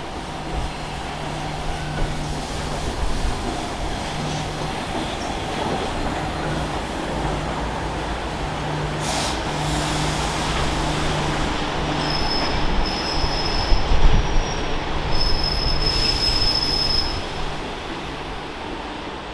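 A train passing on the rails, its running noise building to a peak about two thirds of the way through and then easing off. Its wheels squeal in a few high, thin stretches near the peak.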